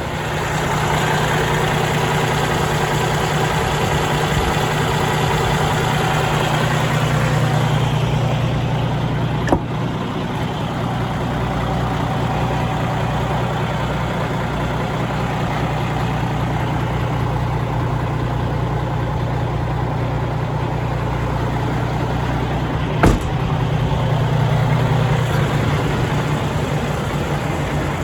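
Diesel engine of a 2016 International LoneStar semi-truck idling steadily, with two sharp clicks, one about nine seconds in and one near twenty-three seconds.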